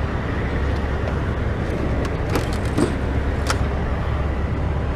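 Steady low rumble of vehicle noise, with a few light clicks in the middle.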